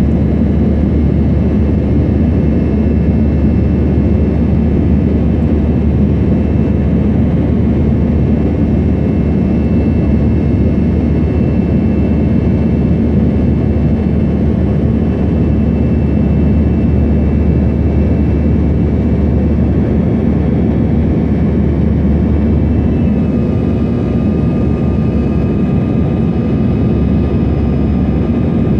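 Airbus A321 jet engines running steadily: a loud, even rumble with faint steady high tones above it, and a further tone joining about two-thirds of the way through.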